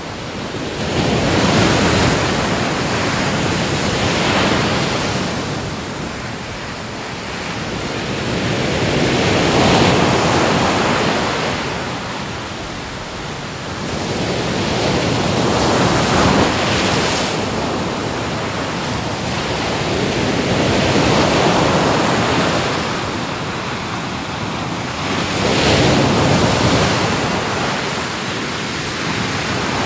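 Sea waves breaking in a steady rushing surf that swells and falls back about every five to six seconds.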